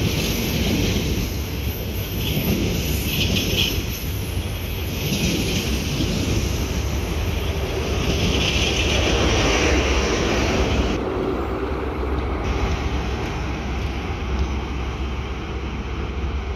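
A diesel-hauled freight train passing, a steady low rumble of engine and wheels with a broad rushing noise that swells and eases.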